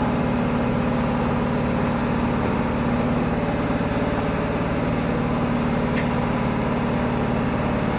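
Chichibu Railway 6000 series electric train standing at the platform, its onboard equipment giving a steady hum.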